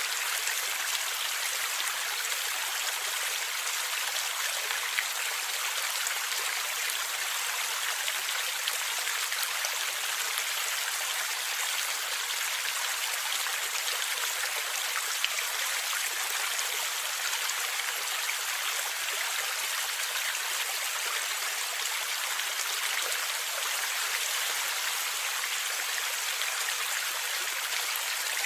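Stream water flowing and gurgling steadily: an even rush of water with a few sharper splashes.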